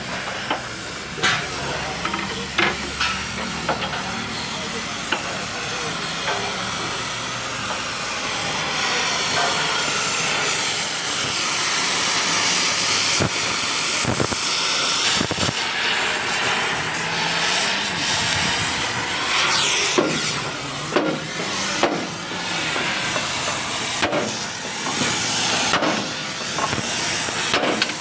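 A steady loud hiss, swelling about midway, with scattered sharp metal knocks: workshop sounds of riveting work on a truck.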